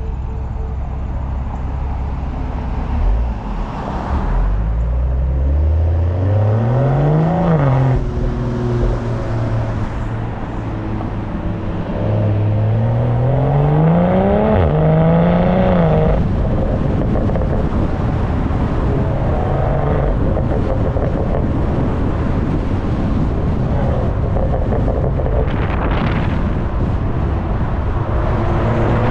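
BMW M340i's turbocharged B58 inline-six exhaust under acceleration: the revs climb twice, each pull dropping back at a gear change, then settle into a steady cruising drone. Wind rushes over the microphone throughout.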